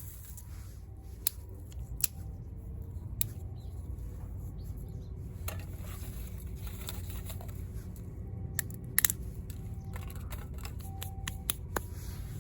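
Scattered sharp clicks and light knocks, a cluster of them about nine seconds in, over a steady low rumble.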